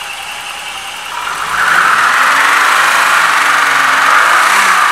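BMW 635 CSi's straight-six engine running steadily at idle, the sound growing louder about a second and a half in.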